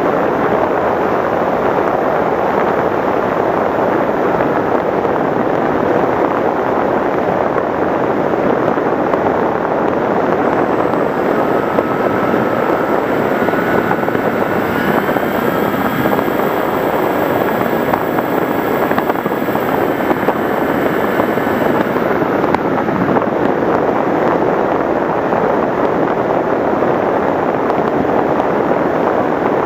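Radio-controlled FPV model aircraft in flight: a steady, loud rush of motor and airflow. A faint thin whine comes in about eleven seconds in and stops about twenty-two seconds in.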